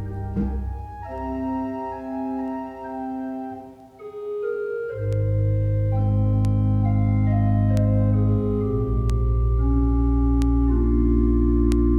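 Organ music playing slow, sustained chords. Deep bass notes come in about five seconds in and hold under the chords.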